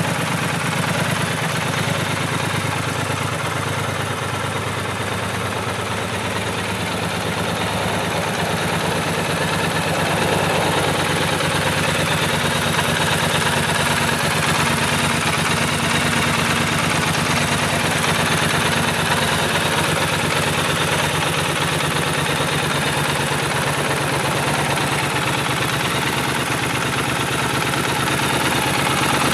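Triumph Scrambler 1200 XE's 1200 cc parallel-twin engine idling steadily, its low, even pulsing unchanged throughout.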